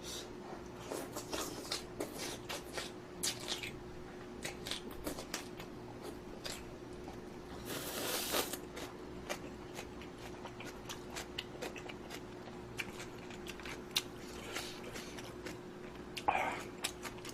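Close-up eating sounds of instant budae-jjigae noodles and kimchi: irregular chewing and crunching with many short clicks and smacks, and a longer slurp about eight seconds in. A faint steady hum runs underneath.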